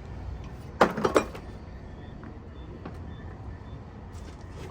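Three quick metal clanks about a second in, from tools striking on a truck wheel hub during wheel bearing nut adjustment, over a steady low rumble.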